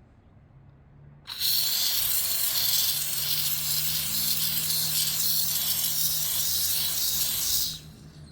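Handheld steam cleaner jetting steam: a loud, steady hiss that starts about a second in and stops sharply near the end, with a low hum underneath.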